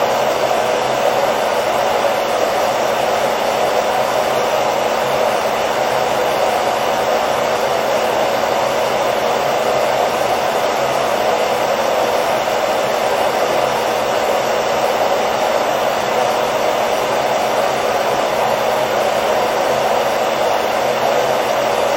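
Hair dryer blowing continuously with a steady, even whoosh and a faint motor hum, unchanging throughout.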